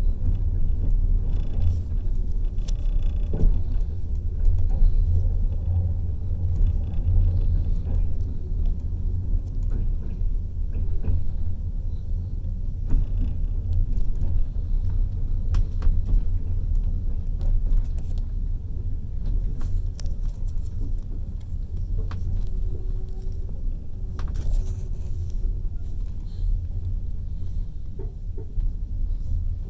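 Passenger train running, a steady low rumble heard from inside the carriage, with scattered light clicks and knocks.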